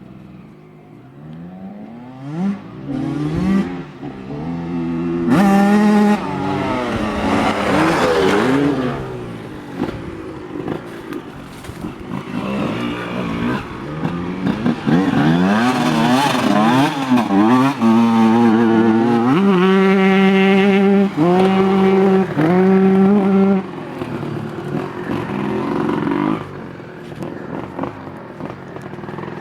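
Honda CR125 single-cylinder two-stroke motocross engine revving hard, its pitch climbing and falling again and again. About twenty seconds in it holds high revs with brief cuts, then drops lower and quieter near the end.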